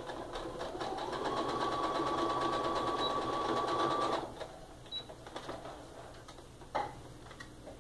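Electric sewing machine stitching a seam along a drawn diagonal line in quilting fabric: a fast, even stitch rhythm with a steady whine that picks up speed about a second in, then stops abruptly about four seconds in. A few single clicks follow near the end.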